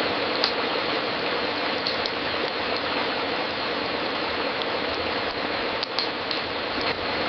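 Wood fire crackling steadily in a fireplace, a dense fine crackle with a few sharper pops, about half a second in and a couple around six seconds.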